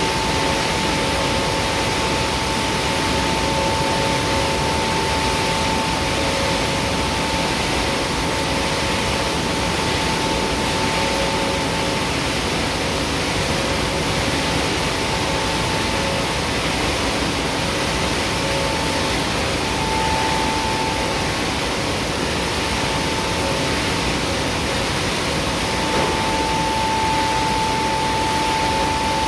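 Palm oil mill machinery at the screw press station running continuously: a loud, steady mechanical noise with a high whine held over it, which drops out briefly twice in the second half.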